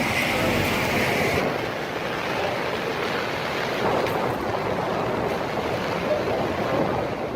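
Tornado wind blowing hard: a steady, loud rushing noise, its high hiss thinning about a second and a half in.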